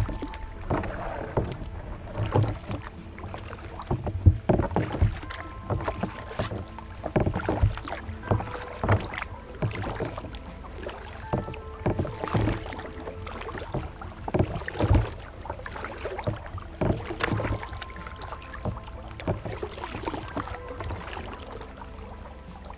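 Kayak paddle strokes in calm water: the blades dip and splash in an uneven rhythm, about one or two strokes a second, with drips between.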